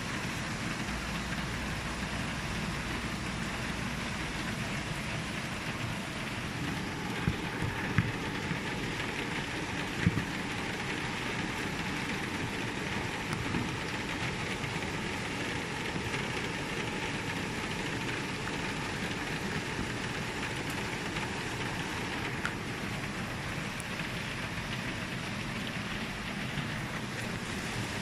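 Steady rain falling, an even hiss, with a few sharp drip-like taps about a third of the way in.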